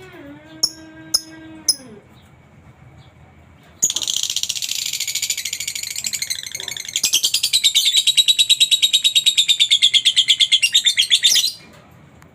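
A lovebird singing a long, very fast chattering trill, starting about four seconds in, growing louder about halfway through and stopping sharply near the end. Before it come a few short high chirps and a steady low hum that bends down and stops about two seconds in.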